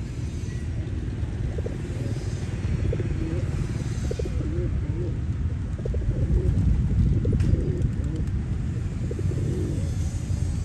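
Pigeons cooing: repeated low, wavering calls over a steady low rumble.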